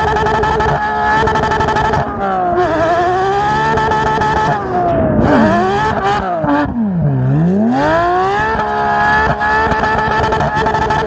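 Porsche 992 GT3's naturally aspirated flat-six, running through an IPE straight-piped headers and exhaust system, revving up and down under way. About seven seconds in the revs fall sharply and then climb back.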